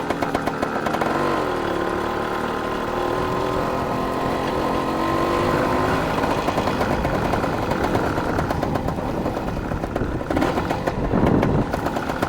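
Dirt bike engine running as the bike is ridden over rough ground, its pitch rising and falling with the throttle. There is a short, louder jolt near the end.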